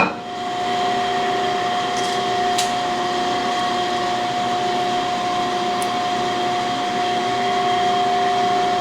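A shop machine running steadily: a constant whine over a hiss. It comes on just after a click at the start and holds without change.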